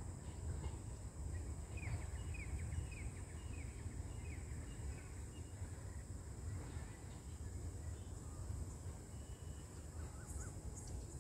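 Low steady rumble, with a bird calling a quick run of about seven short falling notes a couple of seconds in, over a steady high-pitched insect drone.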